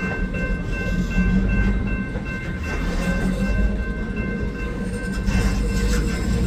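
GP40 diesel locomotive's engine running as the train moves, a steady low drone with several thin, steady high-pitched tones above it.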